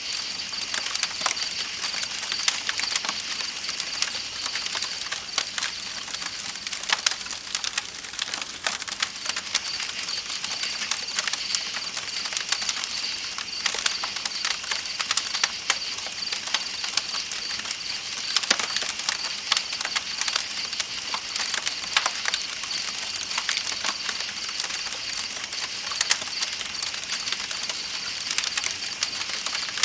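Campfire crackling with irregular sharp pops, over the steady rush of a river and a high, continuous pulsing trill of night insects.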